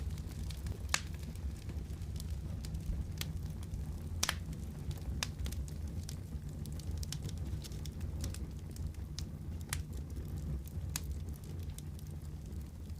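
Wood fire crackling: scattered sharp pops at irregular intervals over a steady low rumble of burning. The loudest pops come about one and about four seconds in.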